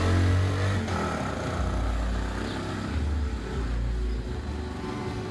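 A motor vehicle's engine running close by on a street, a steady low rumble with road noise.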